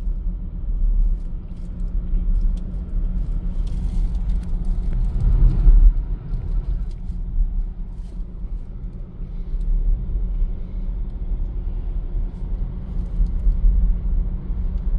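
Road and tyre rumble heard inside an electric Tesla's cabin as it drives along: a steady low noise with a short swell about five seconds in.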